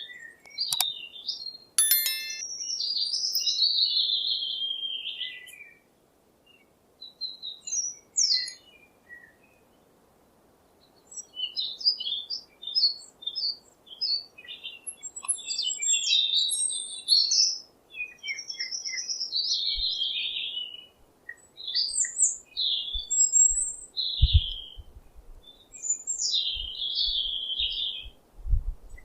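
Songbirds singing and chirping: a varied run of short, high calls and warbled phrases, with a lull of a few seconds about a fifth of the way in. A few brief low bumps come in the last third.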